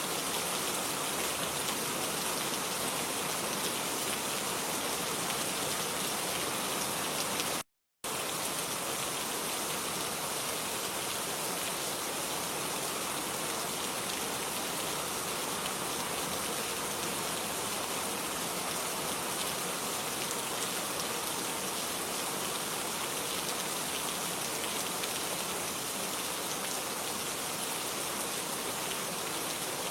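Steady rain falling, an even hiss with no distinct drops standing out. About eight seconds in it cuts out to silence for a fraction of a second, then resumes unchanged.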